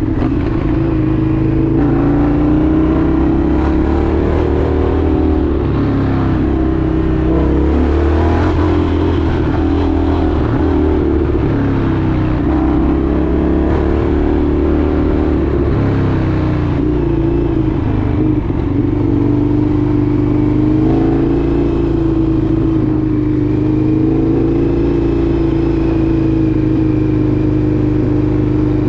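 Indian FTR 1200's V-twin engine running steadily on the move, its pitch rising and falling gently with the throttle.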